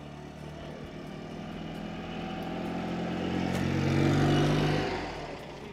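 Classic Fiat 500's small air-cooled two-cylinder engine running as the car drives past at low speed. The engine note builds to its loudest about four seconds in, then falls away.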